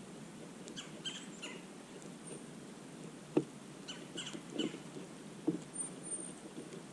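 Small wild birds giving short, sharp chirps and chip notes, several in quick pairs, with a few soft thumps in between; the loudest thump comes about three and a half seconds in.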